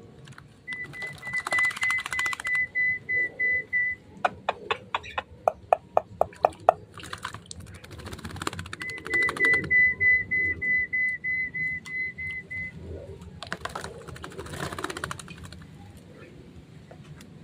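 Javan mynas calling: two runs of rapid, evenly pitched chirping pulses, each a few seconds long, with a series of sharp clicks between them.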